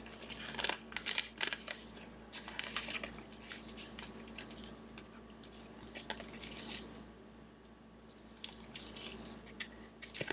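Football trading cards and their foil pack wrappers being handled: irregular crinkling and rustling with short sliding and tearing sounds.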